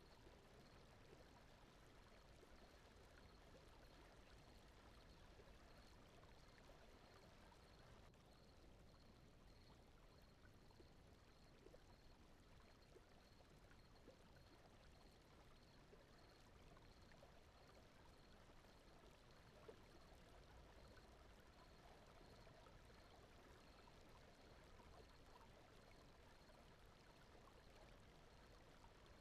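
Faint, steady rushing noise like a flowing stream: a sleep-aid brown-noise and water ambience bed. A faint high pulse repeats evenly above it.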